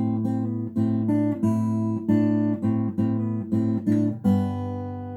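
Acoustic guitar picked note by note in A minor: a run of about eight single notes over the open A bass, then a last note left ringing and slowly dying away from about four seconds in.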